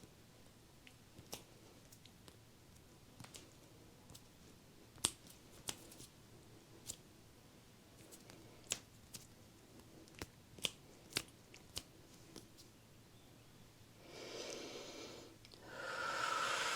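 Close-miked hand sounds from ASMR energy plucking: about a dozen sharp, scattered clicks and snips, then a rushing swish near the end, louder the second time.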